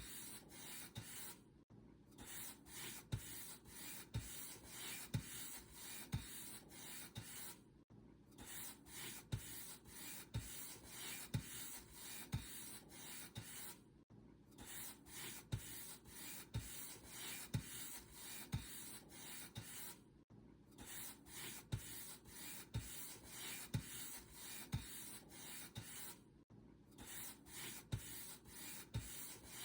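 Paint brush bristles stroked back and forth over a surface, a steady run of scratchy rubbing strokes, with a brief break about every six seconds.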